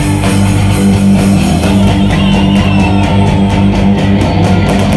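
Instrumental break in a loud rock song, with no singing: electric guitars and bass holding steady notes over a regular drum beat.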